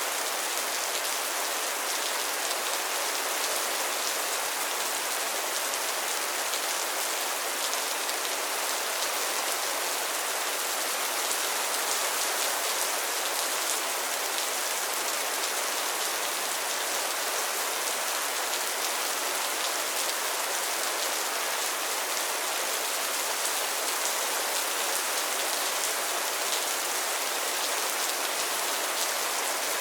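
Steady rain falling on a pond and its floating lily pads, a dense even patter of drops with no letup.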